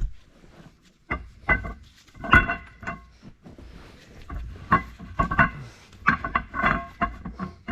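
Metal parts and tools knocking and clanking against a New Holland 7.5 liter engine during teardown: a series of sharp knocks, several with a brief metallic ring.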